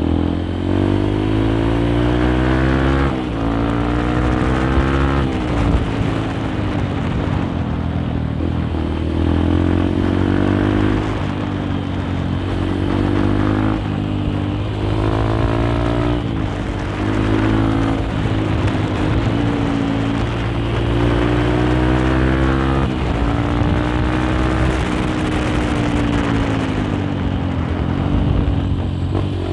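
Honda CRF150L's single-cylinder four-stroke engine through an aftermarket exhaust, ridden on the road: the revs climb through each gear and drop back at every shift, a dozen or so times, with wind rushing over the microphone.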